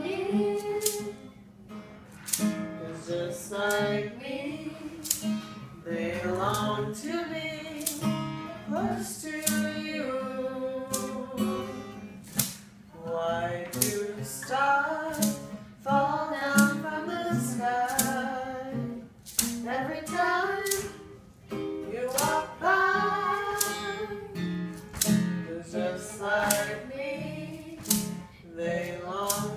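A female voice singing a melody over strummed acoustic guitar.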